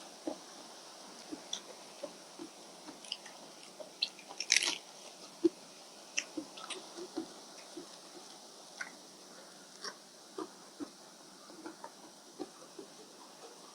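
Close-miked chewing and mouth sounds of a person eating a khao pun rice-noodle meal. Irregular small wet clicks, with a louder burst of eating noise about four and a half seconds in.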